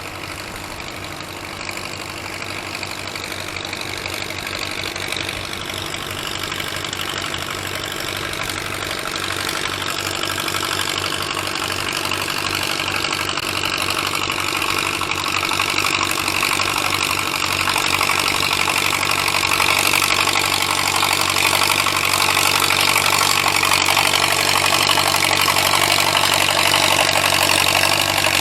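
Antique gas tractor engine running steadily, growing louder over the first twenty seconds or so and then holding.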